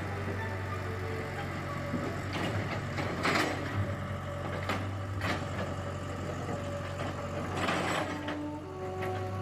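Engine of heavy equipment running steadily at a low hum, with a few short noises over it.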